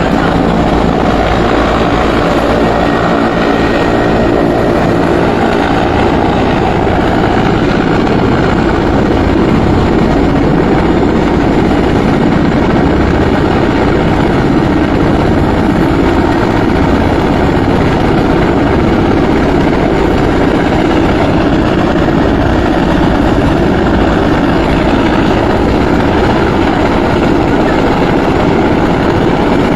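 Helicopter running close by, a loud, steady rotor and engine noise with a fast low throb, during a river rescue.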